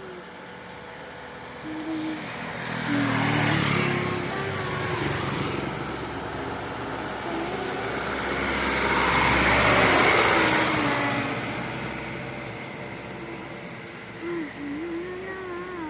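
Heavy trucks passing on a road, one about three seconds in and a louder one peaking about ten seconds in. A wavering whistle-like tone comes and goes.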